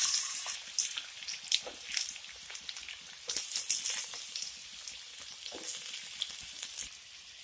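Diced carrots sizzling as they hit hot ghee and oil in a kadai: a loud hiss at first that settles into a crackle with scattered pops, and a second hissing spell about three seconds in.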